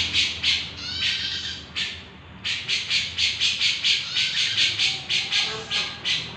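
A cucak jenggot (grey-cheeked bulbul) calling in full voice: a rapid run of harsh, scratchy notes, about three a second, with a short break about two seconds in.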